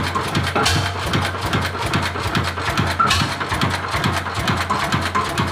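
Antique Slavia 16-horsepower single-cylinder stationary engine running at a slow idle, with even beats about three times a second.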